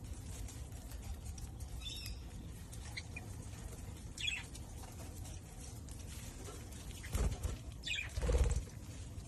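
Budgerigars in a colony giving a few short, scattered chirps over a steady low background noise, with two louder low bursts of noise near the end.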